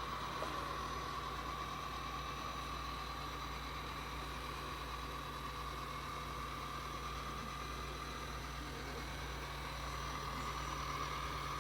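AIRROBO robot vacuum running: a steady motor whine over a low hum, even throughout, growing slightly louder near the end.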